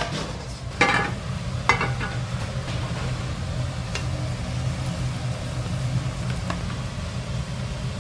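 Food being stir-fried in a large pan: a steady sizzle over a low rumble. A metal utensil strikes the pan sharply twice, about one second in and again a second later, followed by lighter scrapes and taps.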